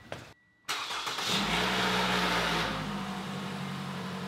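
Toyota RAV4's 2.5-litre four-cylinder petrol engine starting up on its first run after a fresh oil change. The revs flare for a second or so, then settle into a steady idle.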